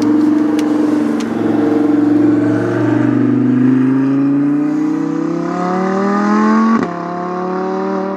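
A supercar's engine accelerating hard along the sprint course, revs climbing steadily for several seconds to well up in the RPMs, then dropping sharply at an upshift near the end.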